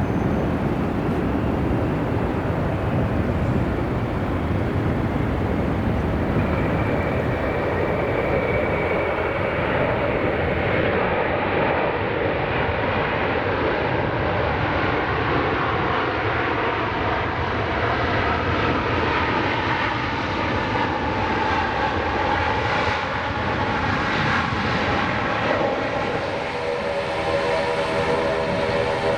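Airbus A380 airliner's jet engines roaring steadily as it comes in to land, with a whining tone rising out of the roar from about a third of the way in.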